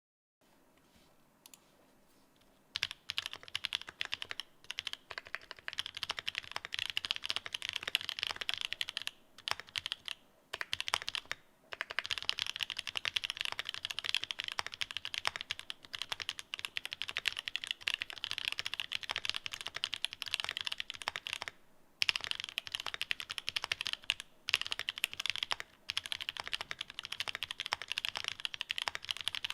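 Continuous fast typing on a Mode The New Eighty mechanical keyboard fitted with Pink Lavender linear switches and Domikey Cherry-profile keycaps. The keystrokes come in a dense stream with a few brief pauses, starting about three seconds in.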